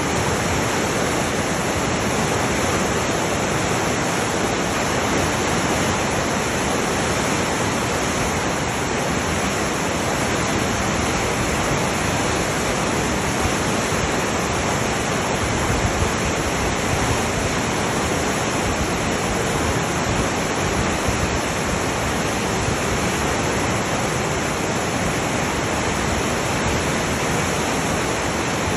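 River water rushing, a loud, steady roar of turbulent flow that does not change.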